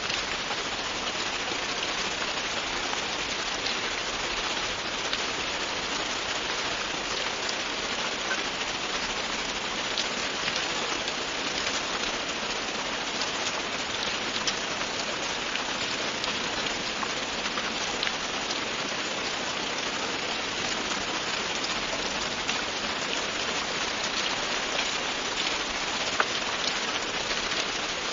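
Steady rain falling, with individual drops ticking over a constant hiss.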